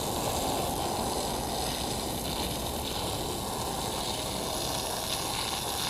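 Garden hose spraying a steady stream of water onto dirt and the coop's wire mesh, washing the dirt off.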